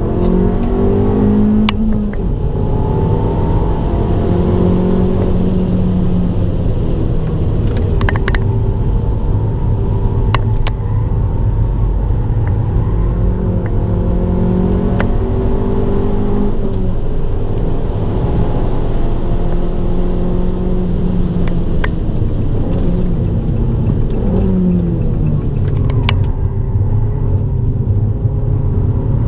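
Abarth 595 Turismo's 1.4-litre turbocharged four-cylinder engine running hard on track, its pitch climbing under acceleration and dropping back at each gear change or lift, several times over. A few sharp clicks stand out here and there.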